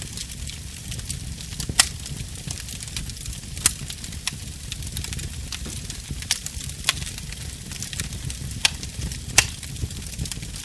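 Wood fire burning in a fireplace: a steady low rumble and hiss of flames, with sharp crackling pops every second or two, the loudest about two seconds in and near the end.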